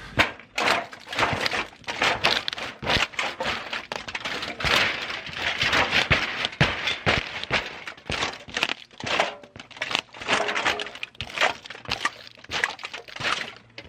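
Loose empty aluminum cans being crushed and packed down, with a dense, irregular run of crunches, crackles and knocks throughout.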